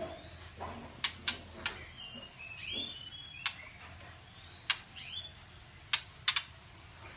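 White-rumped shama making short curving chirps, mixed with about seven sharp, irregularly spaced clicks.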